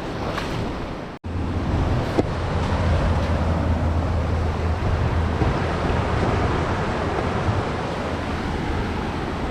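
Ocean surf on a beach with wind buffeting the microphone as a steady low rumble. The sound cuts out for an instant about a second in.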